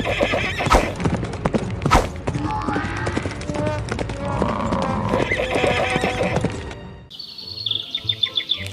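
Cartoon sound effects of galloping hoofbeats and a horse whinnying, over background music. About seven seconds in the busy hoofbeat sound stops and a quick run of high repeated tones follows.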